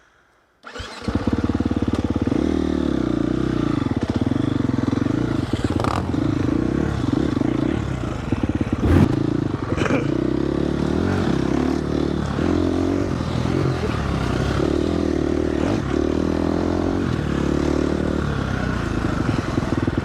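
Dirt bike engine starting about a second in, then running with its pitch shifting up and down as the throttle is worked.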